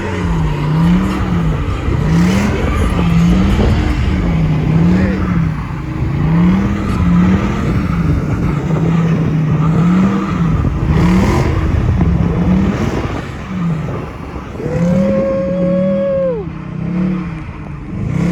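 Dodge Charger's engine revving up and down about once a second, with tire noise, as the car is swung round in donuts. Near the end a higher held tone sounds for about a second and a half, then drops away.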